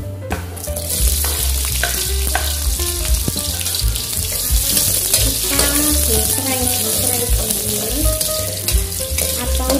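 Sliced garlic, shallots and chillies hitting hot oil in a metal wok and sizzling steadily, starting about a second in, while a metal spatula stirs and scrapes them around the pan: the aromatics being sautéed until fragrant.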